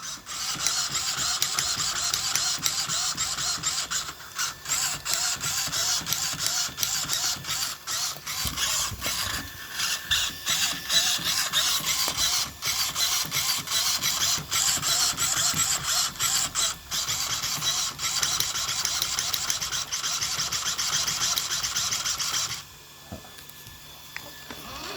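Electric motor and axle drivetrain of a radio-controlled vehicle, spinning with the wheels off the ground: a steady high mechanical whir with many short ticks through it, cutting off suddenly near the end. The owner hears a click from the drivetrain under load and suspects the axle.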